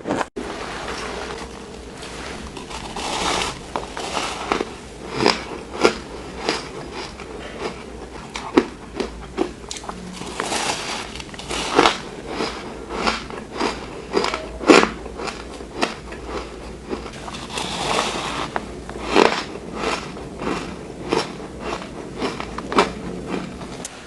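Close-up crunching of someone biting and chewing powdery shaved ice: an irregular run of sharp crunches, with a few longer stretches of gritty chewing.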